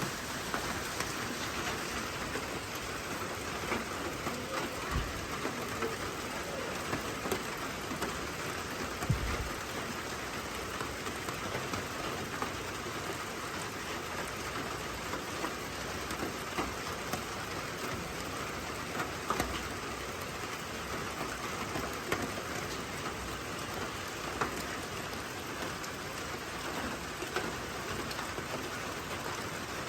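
Steady heavy rain falling, with a couple of brief low thumps about five and nine seconds in.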